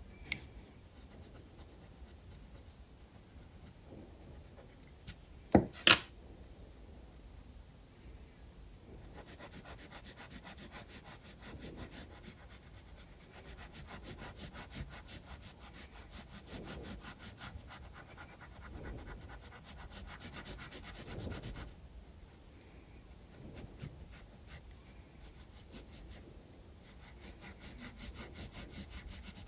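Graphite pencil shading on sketchbook paper in quick, rapid back-and-forth strokes, from about nine seconds in and again near the end, with lighter scratching between. A few sharp taps a little over five seconds in are the loudest sounds.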